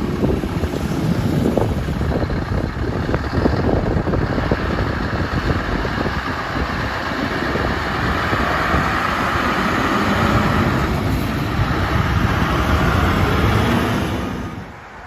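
A heavy truck's diesel engine and tyres as it drives past, a steady loud rumble. The sound falls away sharply near the end.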